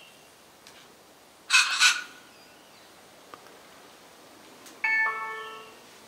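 A bird's short harsh screech in two quick parts about one and a half seconds in. Near the end, a two-note ding-dong chime, a higher note falling to a lower one that rings away.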